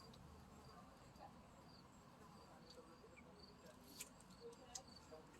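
Near silence: faint outdoor ambience with a few soft, short high chirps and some light clicks near the end.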